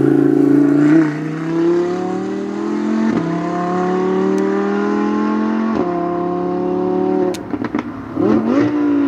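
Supercar engine accelerating hard on track, its pitch climbing steadily and dropping sharply at two upshifts about three and six seconds in. It then backs off, with a few sharp cracks near the end.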